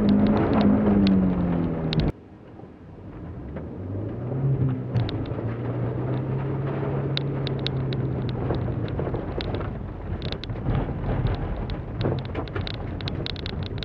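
2006 Holden Barina's engine heard from inside the cabin, driven hard on a dirt course: the note rises and falls, drops away abruptly about two seconds in, then builds back to a steady pull. Sharp ticks, typical of gravel and stones flicking against the car's underside, run through it.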